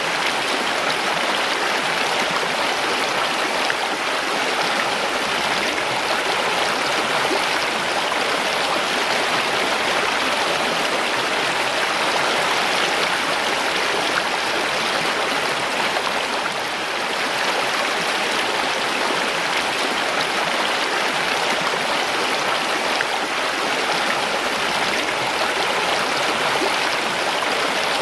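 Mountain stream rushing and splashing over rocks, a steady even flow of water.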